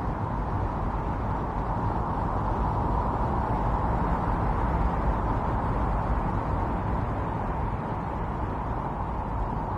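Strong winter storm wind blowing steadily, a dense rushing noise that swells slightly about halfway through.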